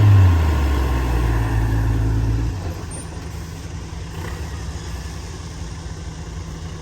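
Heavy diesel construction machinery running, loud and low for the first two and a half seconds, then falling back to a quieter, steady running sound.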